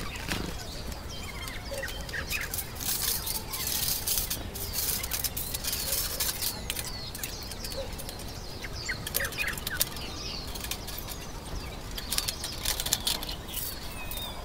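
Small birds chirping in short calls over a steady outdoor background, with clusters of sharp clicks and hiss about three to five seconds in and again near the end.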